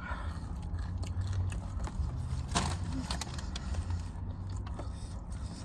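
Close-miked eating: biting into and chewing fast food, with scattered crunches and mouth clicks over a steady low hum.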